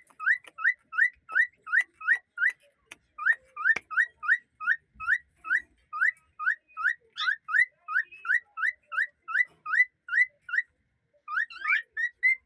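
Cockatiel whistling a fast, regular string of short rising notes, about four a second, with two brief pauses and a held note near the end.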